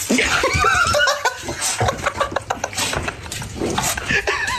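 A dog vocalizing in a run of short whining, yowling calls that bend up and down in pitch, mixed with knocks and rustling.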